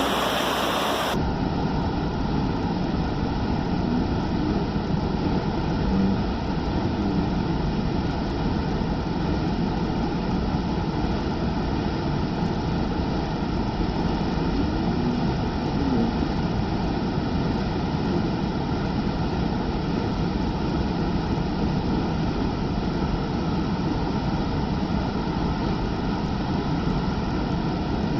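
Waterfall, water falling and splashing in a steady, unbroken roar.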